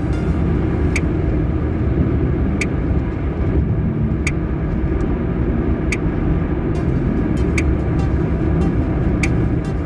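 Car driving, heard from inside: steady engine and road rumble, with a short, sharp tick repeating about every second and a half.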